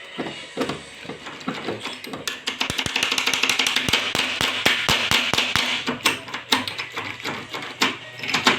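Rapid metallic clicking and tapping from a door knob being worked on, densest through the middle with a hiss rising over it.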